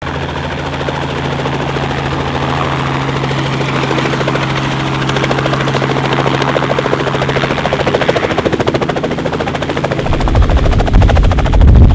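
Helicopter running close by: a steady turbine-and-rotor drone with fast, even rotor chop, swelling into a deep, much louder rumble over the last two seconds.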